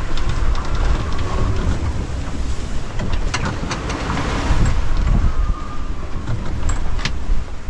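Strong wind buffeting the microphone and rough seas rushing around a small sailboat running before a gale. A few sharp knocks sound about three seconds in and again near the end.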